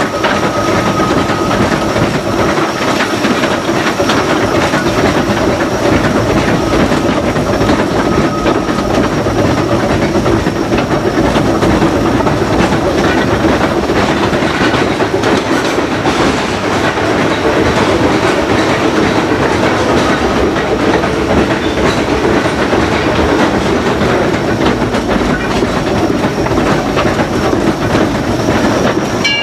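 Disneyland Railroad steam locomotive running steadily, heard from the cab: a continuous rumble with a rapid clatter of wheels and running gear.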